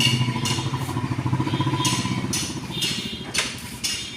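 An engine running at a steady idle, fading in the last second, with repeated sharp taps about twice a second over it.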